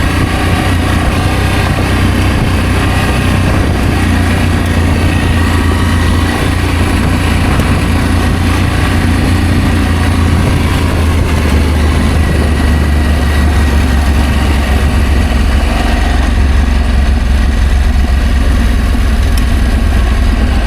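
Adventure motorcycle engine running steadily under way, with a continuous low rumble mixed with wind and road noise.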